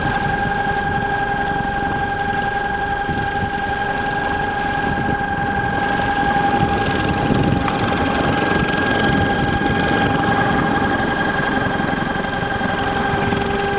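36N48P brushless electric motor running steadily on a reduced supply voltage, giving a constant whine with overtones over a rough mechanical rumble. The rumble grows a little louder and rougher in the middle.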